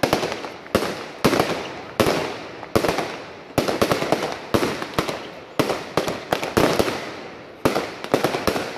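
Fireworks display going off close by: a rapid series of bangs, one about every half second to second, each trailed by a short burst of crackling.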